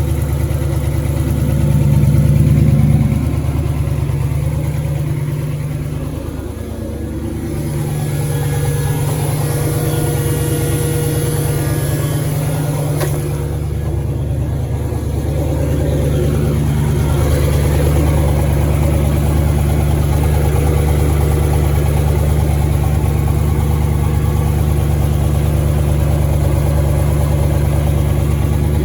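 Car engine idling steadily at a fast idle. The owner later finds the throttle's idle screw missing. The engine swells briefly about two seconds in, dips for a moment a few seconds later, and there is one sharp click partway through.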